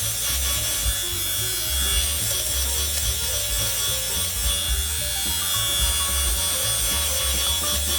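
Electric fabric pill remover buzzing steadily as it is run over a knitted wool scarf, shaving off pills. Background music plays underneath.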